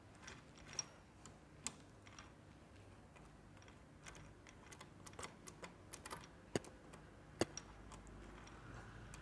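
Scattered sharp metallic clicks and taps as motorcycle gearbox and engine parts are handled and fitted into the crankcase, with two louder knocks about two thirds of the way through.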